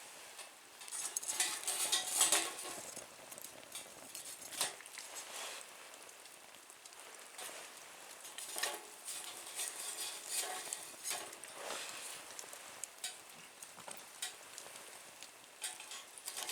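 Wood fire burning in a small metal nature stove, crackling and popping over a soft hiss. There is a dense flurry of crackles about a second or two in, then scattered sharp pops.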